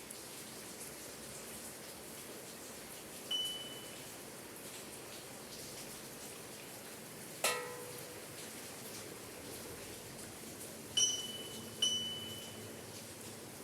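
Small bells of a bell tower rung by the rain, giving four single strikes that each ring on: a high bell about three seconds in, a lower bell in the middle, and the high bell twice more near the end. Steady rain hiss underneath.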